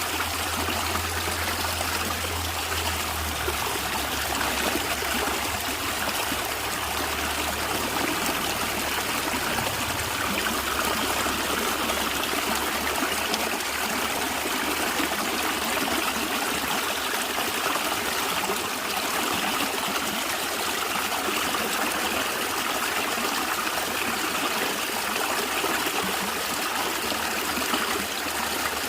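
Natural stream of water flowing and gurgling steadily, with a low rumble that fades out over the first several seconds.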